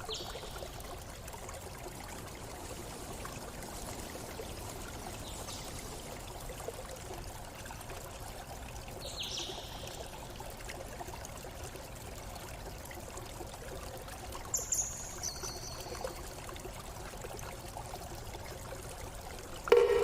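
A stream running steadily, with a few short high-pitched bird calls: one about nine seconds in and a small cluster around fifteen seconds.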